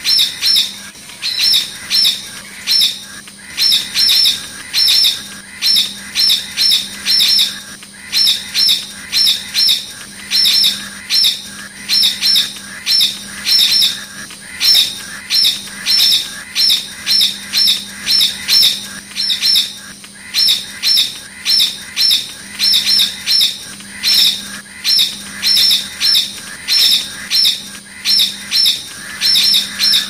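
Bird calling with shrill, short high notes in quick groups of two to four, repeated over and over without a break.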